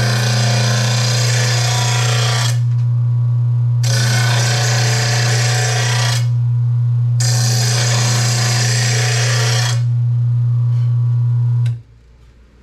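RBG 712 mower blade sharpener's motor humming steadily while a steel mower blade is drawn across it in three long passes, each a loud grinding hiss of about two and a half seconds, taking the edge down to a fresh bevel. The hum cuts off suddenly near the end.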